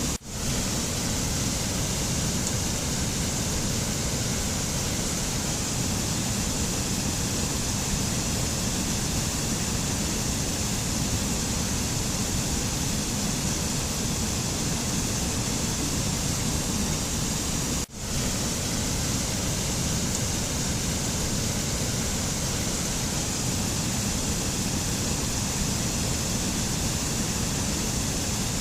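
Steady, even rushing noise of a nature ambience track with no tones or rhythm in it. It drops out for an instant twice: just after the start and about eighteen seconds in.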